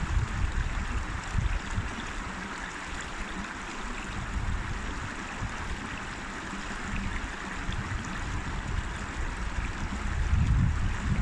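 River water flowing and rushing steadily over stones. A low rumble rises under it briefly at the start and more strongly near the end.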